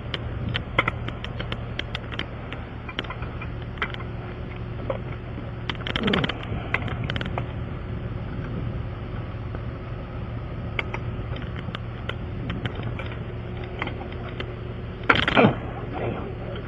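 Hand tools working a tight, stripped wheel lock nut: irregular metallic clicks and clinks, like a ratchet and socket on the lug, over a steady low hum. Two louder scrapes, falling in pitch, about six and fifteen seconds in.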